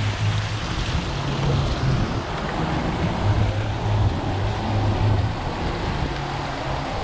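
Steady rushing outdoor noise with low rumbling gusts that come and go, typical of wind buffeting the microphone.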